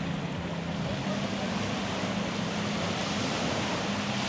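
Steady wash of surf on a beach, with a faint low steady hum underneath.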